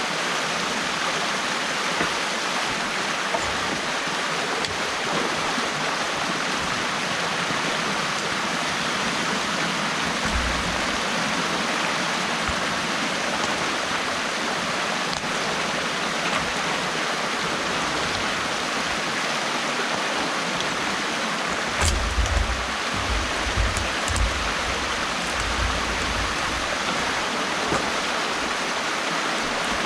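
Water rushing steadily through a gap in a beaver dam. A few low bumps come through about a third of the way in and again two-thirds in.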